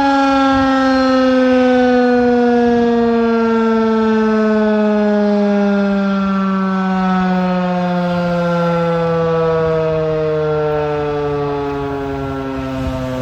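Federal Signal 2001-130 outdoor tornado warning siren sounding loud and steady, its tone falling slowly in pitch as it winds down.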